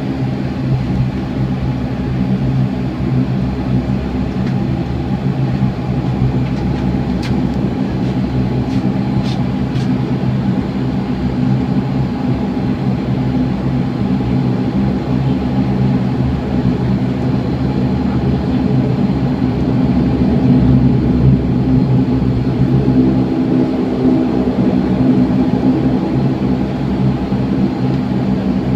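Dash 8 Q400's Pratt & Whitney PW150A turboprop engines and six-blade propellers heard from inside the cabin: a loud, steady propeller drone with a strong hum, growing slightly louder partway through.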